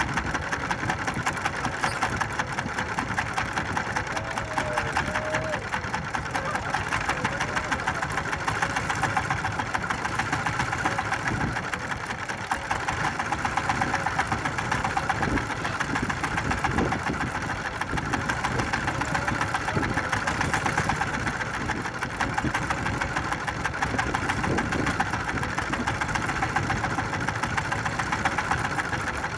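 A small fishing boat's engine running steadily with a fast, even chugging.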